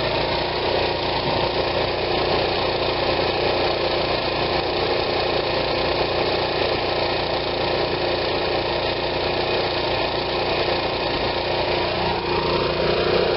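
RV's onboard generator engine running steadily under full electrical load, its carburetor just cleaned; the owner thinks it may still need a little more carburetor cleaner run through it.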